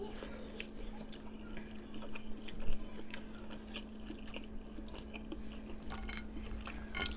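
A person chewing food with soft wet mouth clicks and smacks, one louder click a little under three seconds in.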